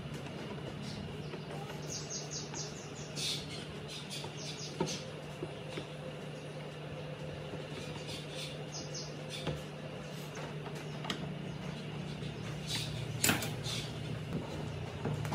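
A steady low hum with scattered sharp clicks and light knocks, including a quick run of small clicks about two seconds in and a louder click near the end, typical of small parts being handled and fitted.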